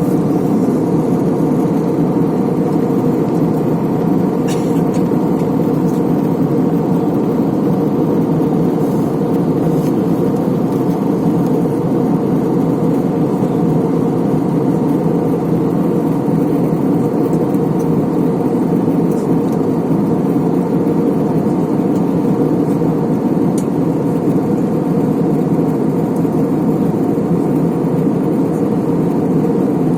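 Steady drone of an airliner in flight heard from inside the cabin: engine and airflow noise, even and unchanging.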